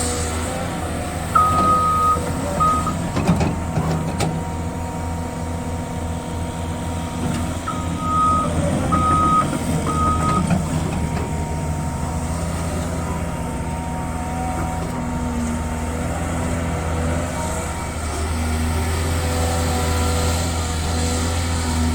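Caterpillar 320 hydraulic excavator's diesel engine running steadily, with a couple of sharp knocks about three to four seconds in. A backup alarm beeps twice near the start and three times about eight to ten seconds in.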